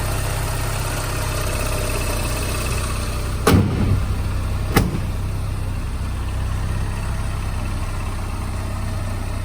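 Porsche 944 S2's 3.0-litre four-cylinder engine idling steadily, a couple of minutes after a cold start. Two sharp knocks sound over it, about a second apart, near the middle.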